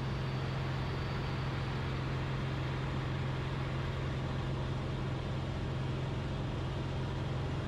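Cessna 172RG's four-cylinder Lycoming engine and propeller droning steadily in the cabin during a climb, a constant low hum with an even rush of noise above it.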